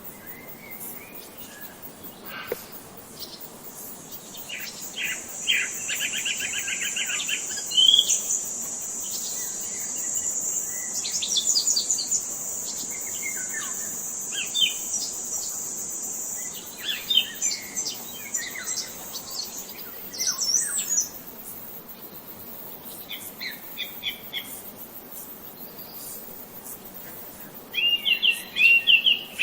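Wild songbirds chirping and trilling, several calls overlapping, with a thin high-pitched buzz held for over ten seconds through the first half. A quick run of loud chirps comes near the end.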